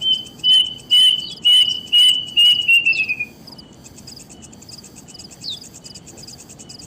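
A run of about six loud, high whistled notes roughly half a second apart, the last ones sliding down in pitch, typical of a bird call. Under it is a steady, fast-pulsing insect chirring.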